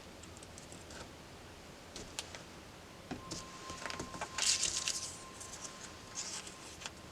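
Desk stationery handling for a paper journal: small clicks and taps of pens and paper, with a brief scratchy rustle about four and a half seconds in.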